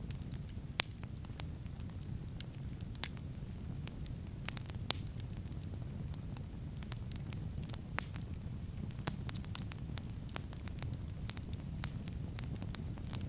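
Wood campfire burning: a steady low rumble of flames with irregular sharp crackles and occasional louder pops of the burning wood.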